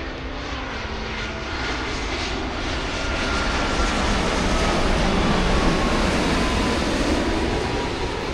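Jet airliner passing low overhead: a rush of engine noise that swells to a peak past the middle and then eases, with a whine that slowly falls in pitch.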